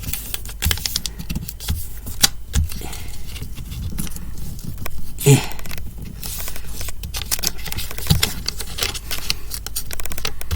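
Notebook paper being handled and folded close to the microphone: irregular rustling and crinkling with small taps and creasing noises, and a brief louder noise about halfway through.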